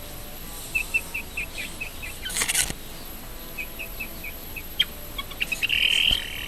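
Baby meat chicks peeping: runs of short, high, evenly repeated peeps, about five a second. A brief rustle comes partway through.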